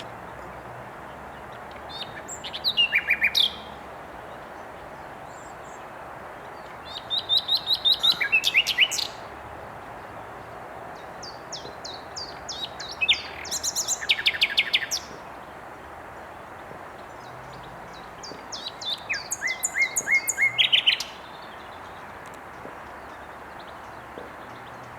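Common nightingale singing: four phrases, each a rapid run of repeated notes and trills lasting one to three seconds, with pauses of a few seconds between them, over a steady background hiss.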